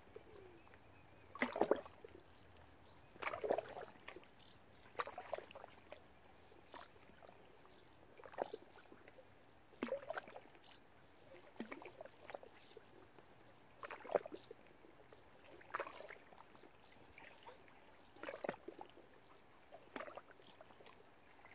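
Water lapping and slapping in short, faint splashes, about one every one and a half to two seconds.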